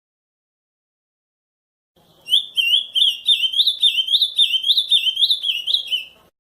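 Ultramarine grosbeak (azulão) singing the 'camaquã' song type. About two seconds in, one song of quick rising-and-falling whistled notes begins, about three notes a second, and it lasts about four seconds.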